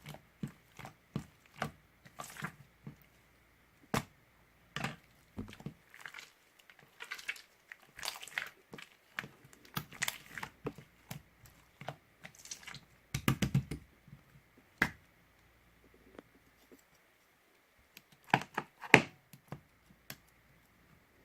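Irregular small clicks, taps and rustles of things being handled close to the microphone, with a quick run of taps about two-thirds of the way in and two sharper clicks near the end.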